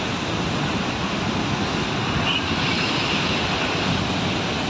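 Rushing floodwater in a swollen river, a steady, even noise.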